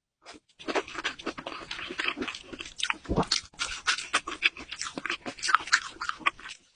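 Close-miked mukbang eating sounds: a person chewing wet, soft food with a rapid run of sharp clicks and smacks. There is a dull thump about three seconds in.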